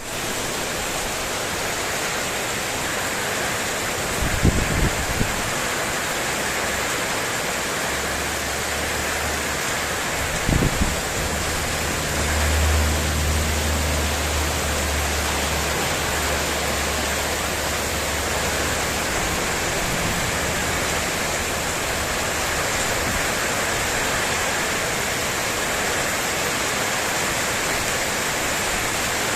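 Heavy wind-driven rain pouring steadily onto a spandek metal terrace roof. A few low thumps come about four and ten seconds in, and a low rumble runs from about eight to nineteen seconds.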